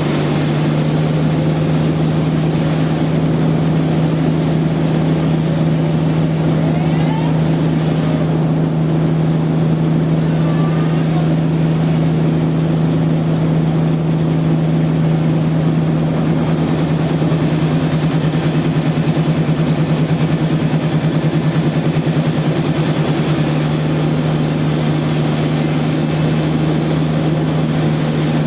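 Sawmill machinery running with a loud, steady low drone and a constant hum that does not change.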